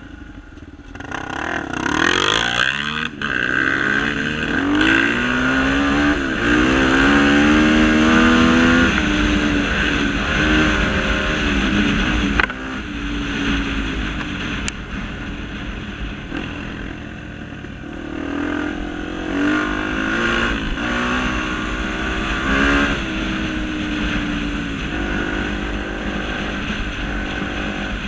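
Honda XR250 Tornado trail motorcycle engine revving hard, its pitch climbing and dropping back again and again as it shifts through the gears, then easing off about halfway through and revving up again.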